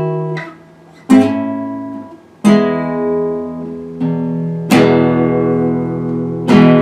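Acoustic guitar strumming chords, about one strum every second and a half, each chord left to ring and fade before the next.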